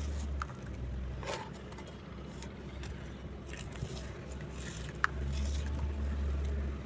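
Dry, round lumps of red sand crumbling as they are crushed, with scattered crunches and a sharp crack about five seconds in, over a low rumble at the start and again in the last two seconds.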